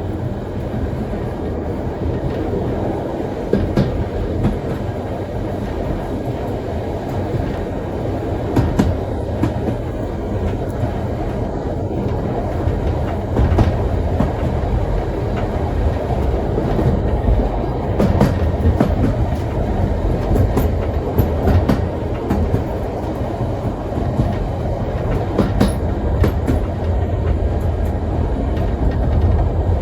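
Heritage steam train running along the track: a steady low rumble of the wheels on the rails, with scattered sharp clicks and knocks.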